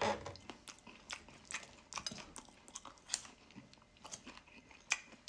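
A person chewing mouthfuls of crispy-shelled, double-fried chicken pieces. The crunches are irregular and sharp, about two or three a second, and loudest about three seconds in and again just before the end.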